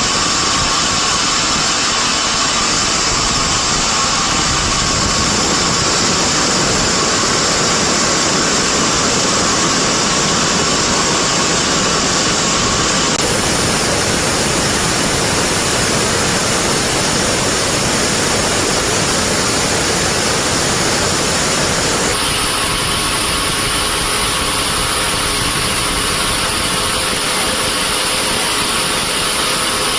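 Band sawmill machinery running steadily, a loud continuous motor-and-blade noise whose tone shifts abruptly twice.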